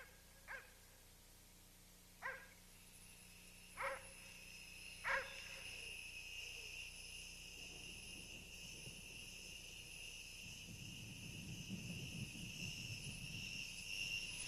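A dog gives about four short, sharp barks in the first five seconds. Then a steady high-pitched tone sets in and slowly grows louder, joined by a low rumble near the end.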